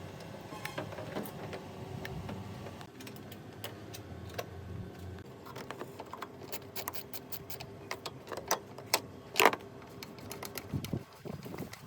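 A run of irregular light clicks and taps, denser in the second half, with one louder sharp knock about nine and a half seconds in, over a steady low hum.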